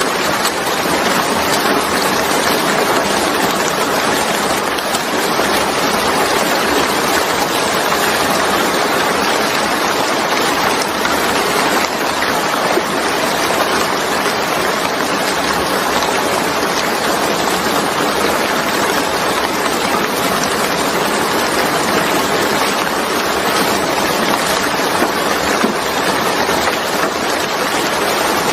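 Steady rain falling, a dense even hiss that never breaks or changes.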